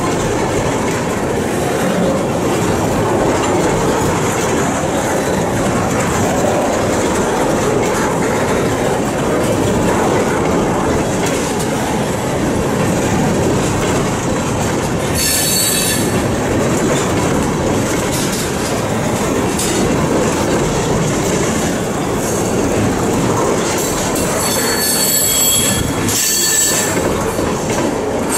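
Freight train tank cars rolling past: a steady, loud noise of steel wheels on rail. High-pitched metallic squeals come from the running gear about halfway through and again near the end.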